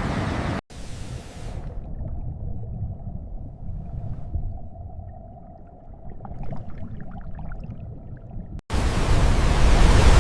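Loud rushing water-and-wind noise cuts off abruptly under a second in. It gives way to a muffled, low underwater rumble with faint scattered clicks, and the loud rushing noise cuts back in abruptly near the end.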